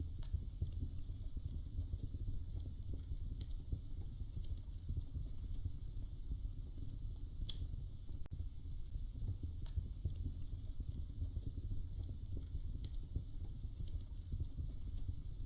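Wood fire crackling in a fireplace: scattered, irregular sharp pops and snaps over a low steady rumble.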